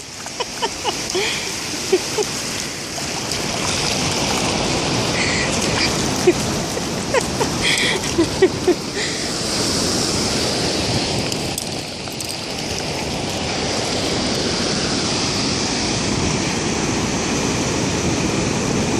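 Ocean surf washing onto the beach: a steady rushing wash that swells and eases, with a few brief faint calls in the first half.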